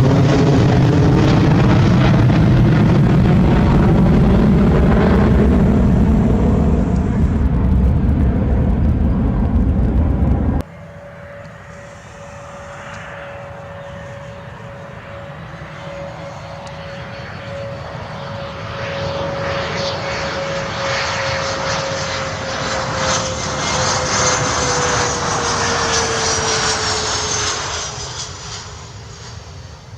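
Aircraft engine noise at an airport. A loud, low-heavy engine noise cuts off abruptly about ten seconds in. Then another aircraft passes with a steady engine whine that grows louder and drops in pitch as it goes by, fading near the end.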